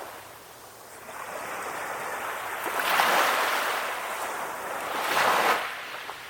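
Calm ocean waves breaking and washing up the shore, a hiss that swells about a second in and peaks twice, near the middle and again about a second before the end, then fades.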